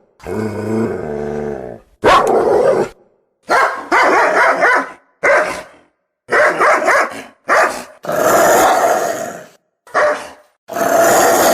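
Dog sounds played back to back as separate short clips, each cut off sharply into silence: first a low growl of about two seconds, then about nine barks or short runs of barking.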